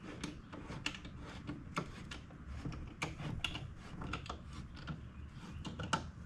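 Irregular light clicks and knocks of parts and tools being handled, several small sharp clicks every second, over a low rumble.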